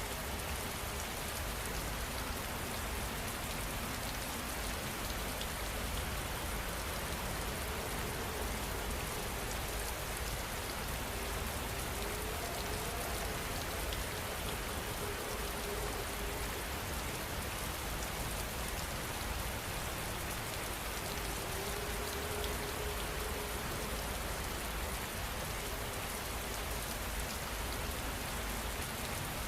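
Heavy, steady rain falling.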